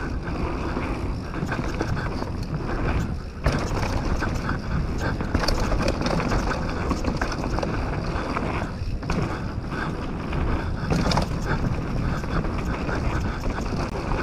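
Canyon Torque mountain bike rolling fast down a dirt trail: tyres on the ground, with constant rattling and clicking from the bike and wind on the action-camera microphone. There is a short lull a little over three seconds in, ended by a hard knock.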